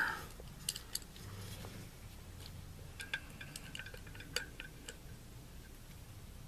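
Steel hand tool and muzzle-brake parts clinking together as the wrench is fitted. A couple of light metallic clicks come about a second in, then a quicker run of ringing clinks from about three to five seconds in.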